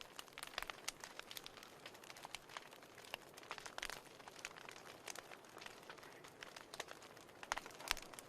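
Wood fire burning in a fireplace: a soft hiss with irregular crackles and pops, a few sharper pops near the end.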